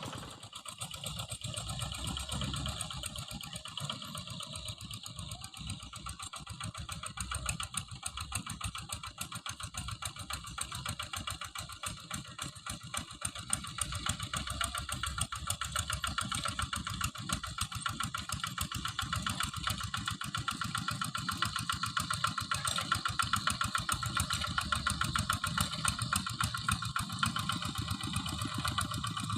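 Quick Impala two-wheel hand tractor's small engine running steadily, its firing a fast even chatter.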